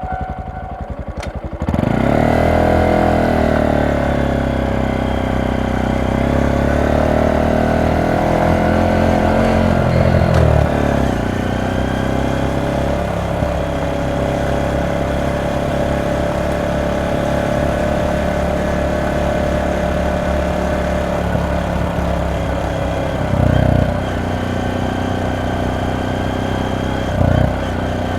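Honda Monkey 125's single-cylinder four-stroke engine and exhaust on the move. The engine note jumps louder about two seconds in, changes around ten seconds, then holds a steady cruise, with two short louder bursts near the end.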